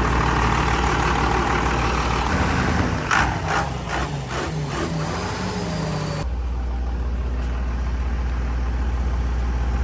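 Diesel truck engine idling steadily, with a louder, noisier layer and a few clicks over it that cut off abruptly about six seconds in.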